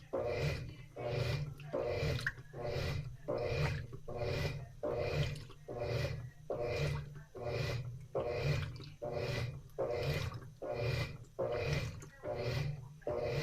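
Top-loading washing machine with a central agitator in its wash stroke. The motor hums and the water sloshes with each swing of the agitator, in an even rhythm of nearly two strokes a second.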